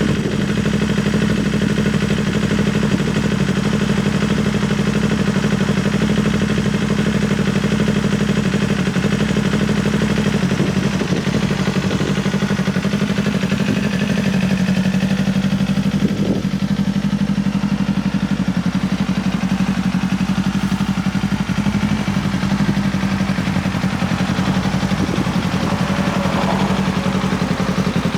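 Kawasaki Ninja 500 parallel-twin engine idling steadily through a Leo Vince slip-on exhaust.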